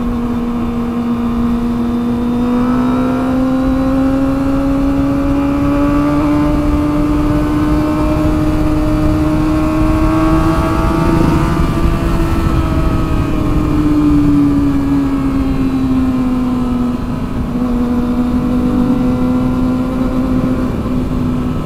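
Kawasaki ZX-25R's 250 cc inline-four engine running at high revs while cruising. Its steady note climbs gradually through the middle and eases back down again.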